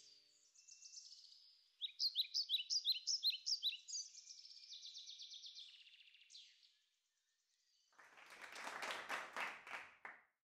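Songbird chirping in quick runs of repeated high notes, stopping about seven seconds in. About a second later comes a short noisy burst of several rapid strokes, lasting about two seconds.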